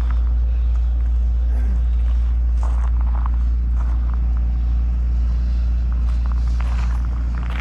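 An engine running steadily, with a deep constant hum.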